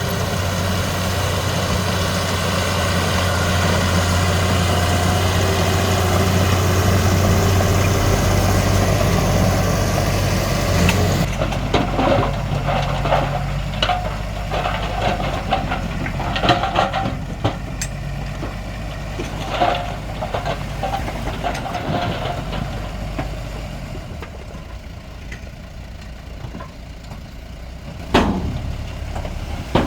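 Heavy diesel earthmoving machinery running steadily. About eleven seconds in, the sound changes abruptly to a quieter, lower engine hum with scattered clanks and knocks, and there is a sharp knock near the end.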